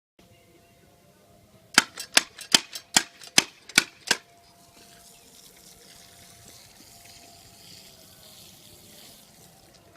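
A quick series of about nine sharp clicks over roughly two seconds, followed by a faint steady hiss.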